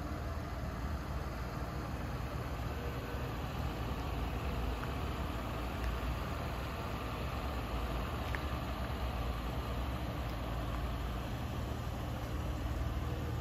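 Cadillac XT6 hearse's engine idling steadily, a low even hum.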